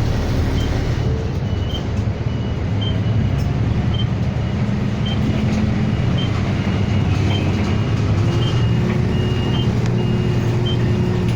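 City bus engine running, heard inside the cabin, its pitch rising slowly in the second half as the bus picks up speed. A short high beep repeats about once a second, the bus's turn-signal indicator ticking.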